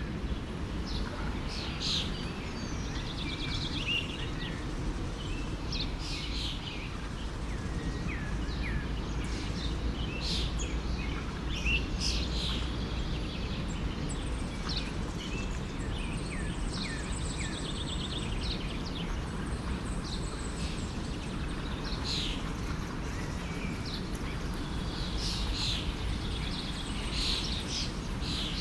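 Many small birds chirping and singing, with short calls and a few quick trills scattered throughout, over the steady low rush of a forest stream.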